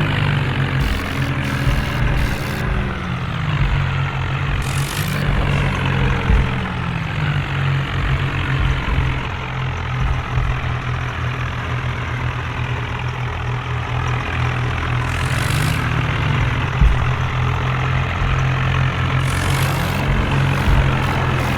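Tractor diesel engine running steadily, its pitch rising and falling briefly a few times as the engine speed changes.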